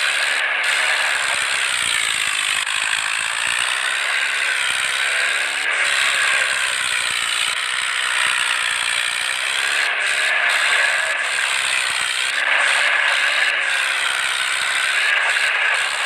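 Loud, continuous mechanical rattling and clatter from running machinery, with a slowly wavering pitch.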